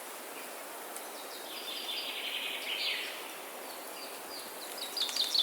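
Songbirds singing over a steady forest background hiss: a trilled phrase about a second and a half in, then a quickening series of short, high, down-slurred notes that grows louder near the end.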